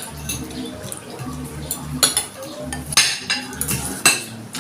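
Cutlery clinking and scraping against a plate during a meal, with a few sharp clinks about two, three and four seconds in.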